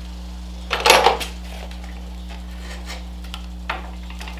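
Metal parts and tools clinking, with one sharp clatter about a second in, then a few light clicks, over a steady low hum.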